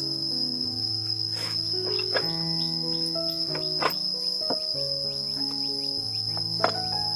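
Crickets chirring in a continuous high trill over soft background music of slowly changing held notes, with a few sharp taps.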